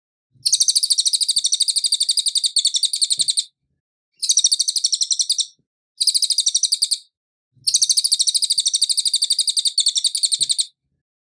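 A cililin singing a shrill, rapid buzzy trill in four bursts: a long one, two short ones, then a long one, with brief pauses between.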